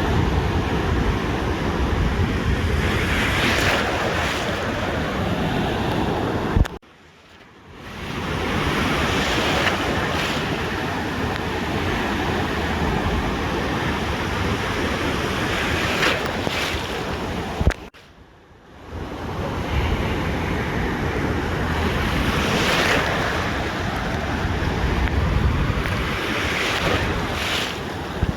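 Ocean surf washing onto a beach, waves swelling and breaking every few seconds, with wind buffeting the microphone. Twice, about 7 and 18 seconds in, the sound cuts out suddenly after a click and fades back in about a second later.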